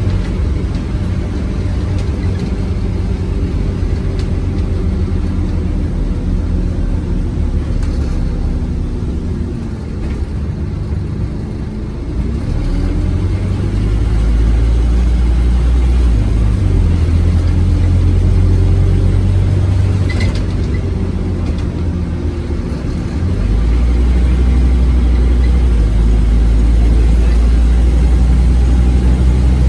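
Scania OmniCity single-deck bus engine running under load. It eases off for a few seconds before getting louder again as the bus accelerates about 14 s in. It drops briefly once more and picks up again near the end.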